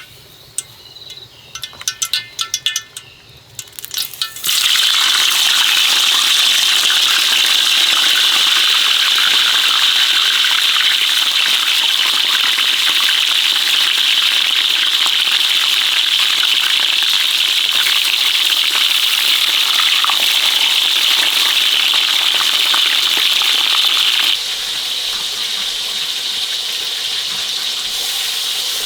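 A few seconds of light clinking and rattling, then a loud steady rushing hiss that starts abruptly about four and a half seconds in and eases slightly near the end.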